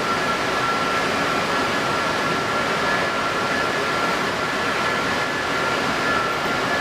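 Steady rushing of strong wind and moving water, with a steady high whine running under it.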